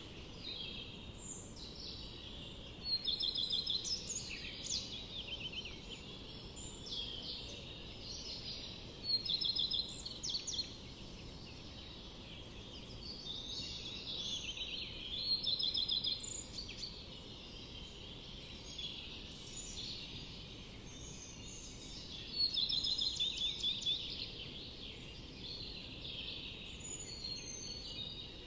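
Several songbirds singing in a forest: a chorus of short, high, rapidly repeated trilling phrases, some louder than others, over a steady low background hiss.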